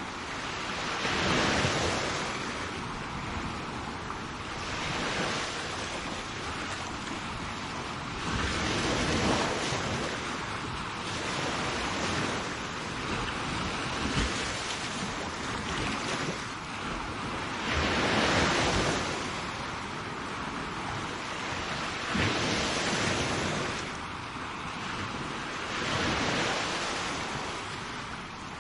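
Sea waves breaking and washing up a shore: a continuous rushing wash that swells into a surge every four to five seconds and then ebbs.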